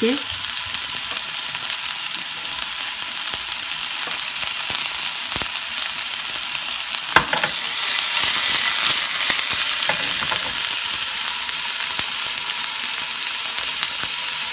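Small minced-meat kabobs sizzling steadily in olive oil in a nonstick frying pan. There is a single sharp knock about seven seconds in, just as the pan is shaken.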